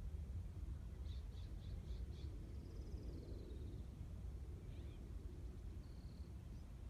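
Small songbirds singing faintly: a run of five quick high notes, then a falling trill, and a few short single whistles, over a steady low rumble.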